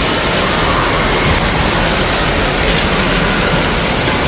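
Steady loud rush of water and crowd din in an indoor water park.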